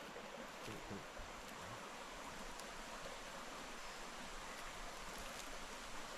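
Small river flowing, a steady faint hiss of running water, with a few faint clicks scattered through it.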